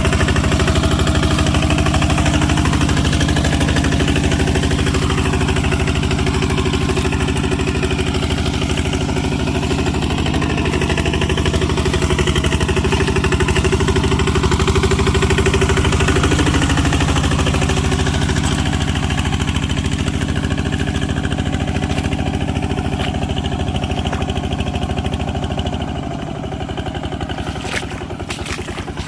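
Tractor engine running steadily. It gets quieter about 26 seconds in, and a few sharp clicks follow near the end.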